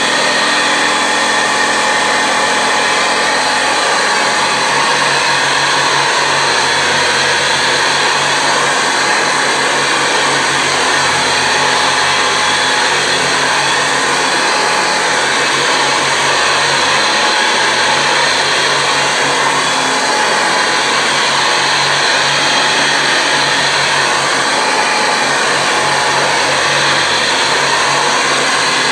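Hoover Convertible Model 719 upright vacuum cleaner running steadily, its motor and aluminum fan making a constant rush of air with a steady whine.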